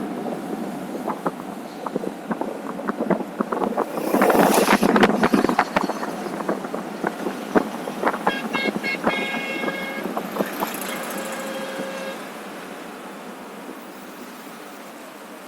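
Road traffic noise with scattered clicks and knocks, a louder rush of noise about four seconds in, and a quick run of beeps about eight seconds in.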